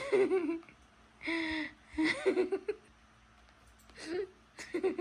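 A young child's high-pitched wordless vocal sounds, whimpering and giggling, in about five short bursts.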